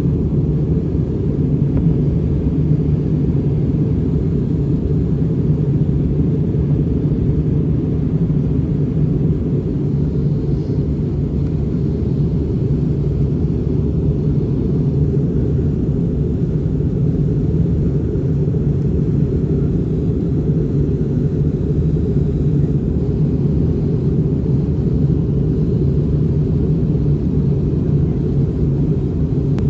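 Steady low drone of an airliner cabin in flight: engine and airflow noise, even and unchanging.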